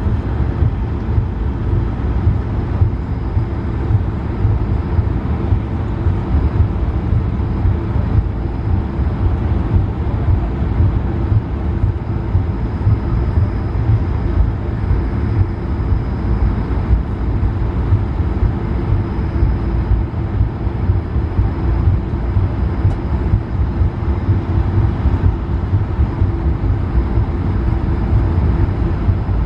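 Steady cabin noise of an Airbus A220-300 in motion: a dense low rumble of the Pratt & Whitney PW1500G geared turbofans and airflow, with a faint steady high whine.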